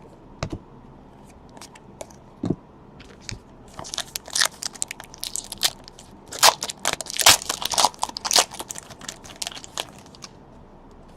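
A foil trading-card pack wrapper being torn open and crinkled, after a few scattered light clicks and taps; the crinkling is densest in the middle and stops about a second before the end.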